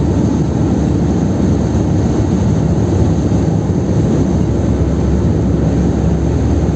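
Steady engine and road drone inside the cabin of a Chevrolet Kadett 1.8 cruising on the highway.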